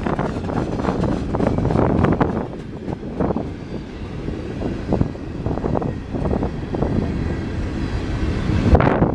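Freight train rolling past: a steady rumble from the cars with irregular knocks and clanks.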